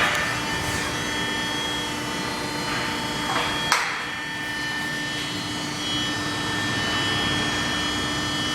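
Automatic car wash equipment running with a steady mechanical hum. A swishing rush of noise comes at the start and again about three and a half seconds in.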